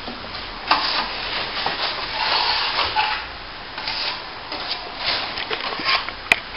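Steel plastering trowel scraping top-coat plaster across a plasterboard joint in a run of uneven rasping strokes. Two sharp clicks come near the end.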